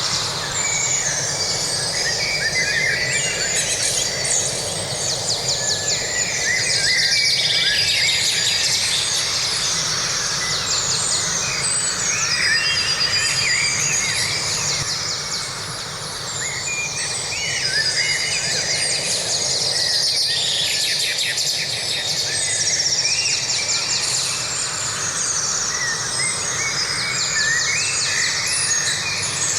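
Forest birdsong: several birds chirping and trilling over and over, over a steady background rush.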